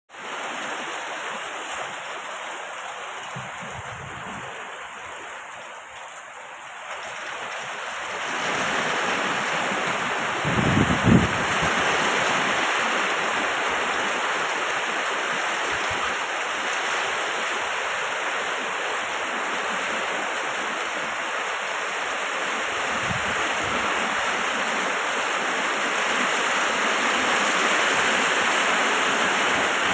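Heavy storm rain pouring down as a steady loud hiss that swells louder about eight seconds in, with a brief low rumble around eleven seconds.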